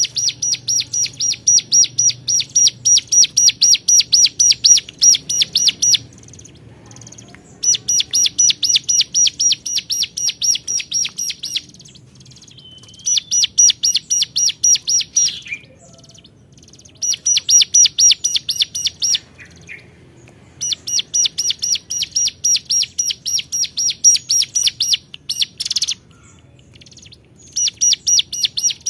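Hill prinia (ciblek gunung) singing to challenge rivals: bouts of a sharp 'cuap' note repeated rapidly and evenly, about four a second. Each bout lasts a few seconds, with short pauses between.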